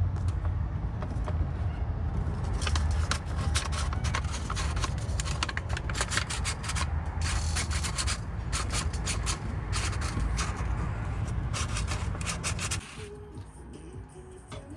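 C6 Corvette V8 running through newly fitted aftermarket headers and X-pipe: a steady deep rumble with irregular crackles on top, which cuts off about two seconds before the end.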